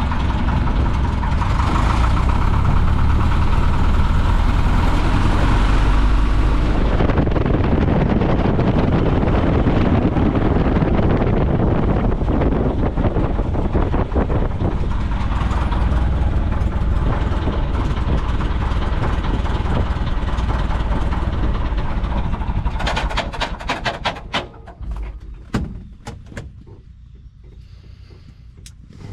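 Piper J-3 Cub's engine running steadily at low power, heard from inside the cockpit, then stopping about 23 seconds in; a series of short clicks and knocks follows as it goes quiet.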